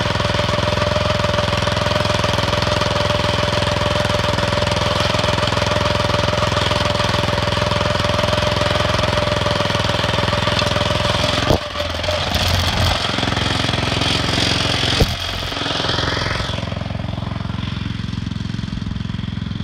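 Planet Jr tractor's small engine running steadily. About halfway through come two sharp knocks a few seconds apart, after which the engine note drops and runs more quietly to the end.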